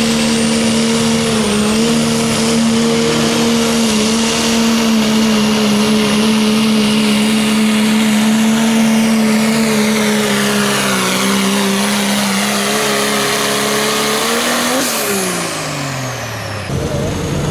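Diesel pickup engine of a pulling truck at full throttle during a pull, holding high, nearly steady revs with a high whine above it. About fifteen seconds in the throttle comes off and the engine note falls away quickly.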